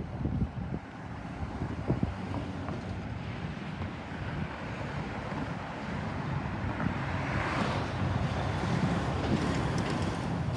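Wind buffeting the microphone over a steady low rumble, growing a little louder in the second half, with a couple of thumps early on.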